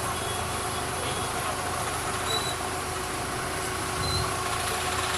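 Steady, even drone of a running engine-like machine, with a few brief faint high chirps over it.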